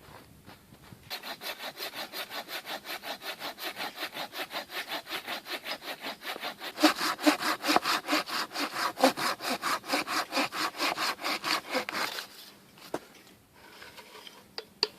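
Hand saw cutting through wood in quick, even back-and-forth strokes. It starts about a second in, gets louder about halfway through, and stops near the end.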